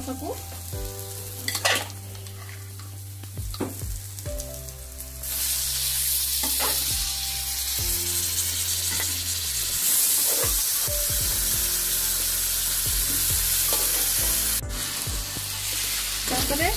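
Spiced masala frying in an aluminium kadai, with a spoon scraping. About five seconds in, a loud, steady sizzle starts as boiled jackfruit and potato pieces go into the hot oil. There is one sharp knock near the end.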